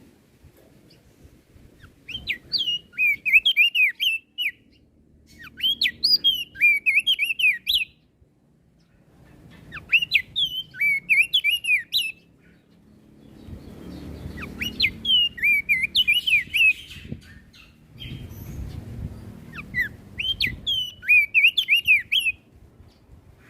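Crested dark-eye (opior jambul) singing five quick, warbling phrases of rapid rising and falling notes, each about two seconds long, with pauses of a few seconds between them.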